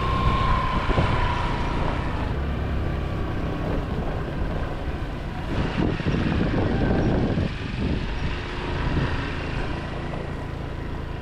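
Motor scooter on the move: engine running under steady wind rumble on the microphone, with a louder rough stretch partway through.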